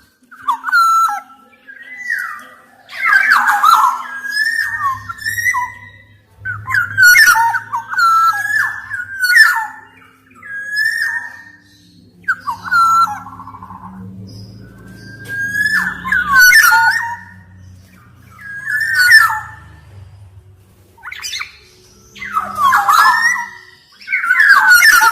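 Black-naped oriole singing: loud, fluty whistled phrases of gliding notes, repeated every two to three seconds with short pauses between. A faint low hum runs under the middle part.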